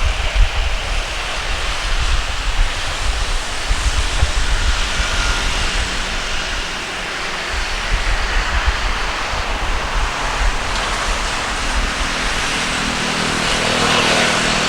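Jet noise of a Boeing 737-800 airliner landing, growing a little louder toward the end, with wind rumbling on the microphone.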